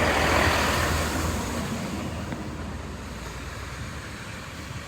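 Great Western Railway Class 165 diesel multiple unit running through the station, its diesel engine and wheel rumble fading steadily away.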